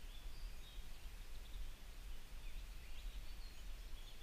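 Birdsong: short scattered chirps from small birds over a steady low rumble.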